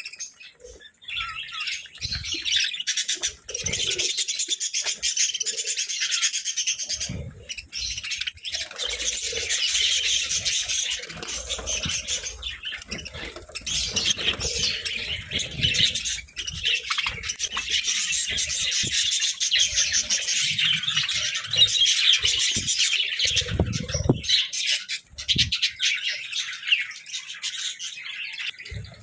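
Several budgerigars chirping and warbling in a near-continuous high chatter, with a few short low thumps.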